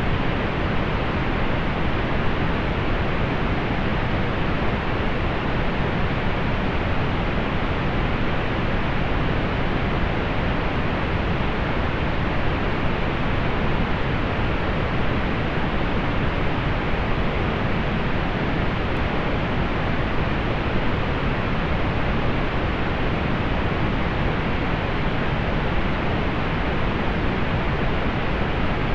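Steady pink noise, soft and low-weighted, with its highs rolled off; an even hiss that does not change.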